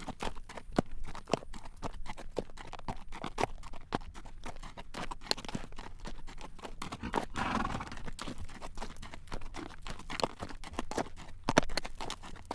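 A horse's hooves clip-clopping on a road at a walk as it draws a carriage: a steady, even run of sharp clacks. A short breathy rush comes a little past the middle.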